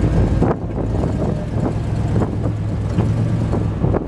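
Monster truck's engine running steadily at low revs, with scattered knocks and rattles over it.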